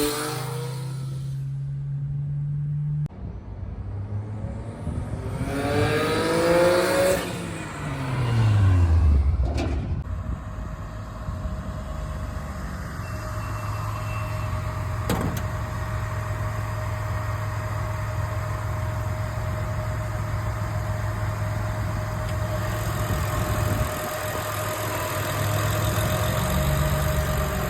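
Single-turbo Nissan 300ZX's VG30DE V6 running: steady at first, then revved once about six seconds in, the pitch rising and falling back, before settling into a steady idle that lifts slightly near the end.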